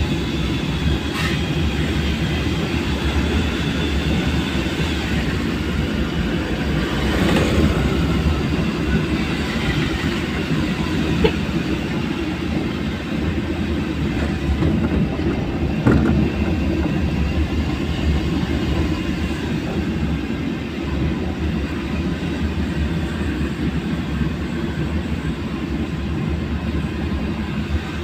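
Steady low rumble of a vehicle driving, engine and road noise, with a couple of sharp knocks partway through.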